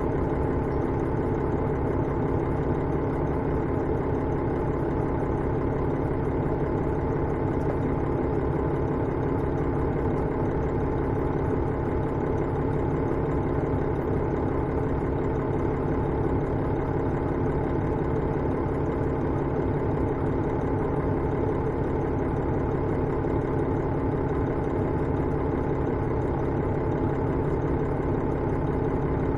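Diesel engine of a KiHa 112 railcar (KiHa 110 series) running steadily at an even pitch, heard from inside the passenger car.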